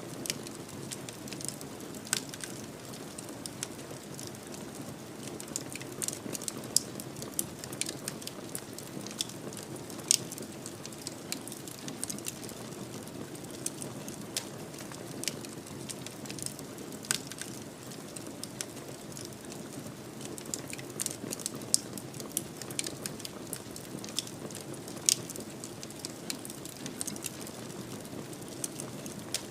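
Fireplace fire crackling: frequent, irregular sharp pops and snaps over a steady low rushing sound.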